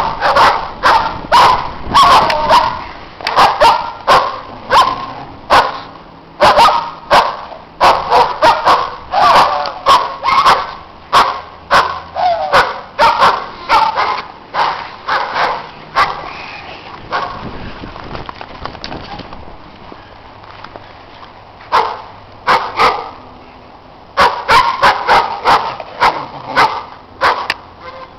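Dogs barking in rapid, repeated runs. There is a lull about halfway through, and then two more clusters of barks near the end.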